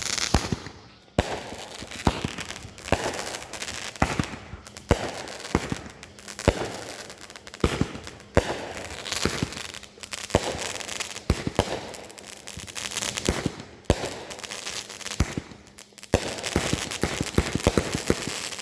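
Consumer fireworks going off: a string of sharp bangs, each with a crackling tail, then a fast run of small pops and bangs near the end.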